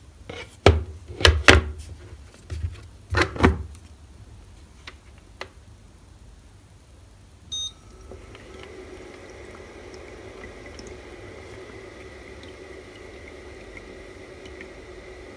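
A few sharp clacks and knocks, like a microwave oven door shutting and panel buttons being pressed, then a short beep. After that the microwave starts running with a steady hum.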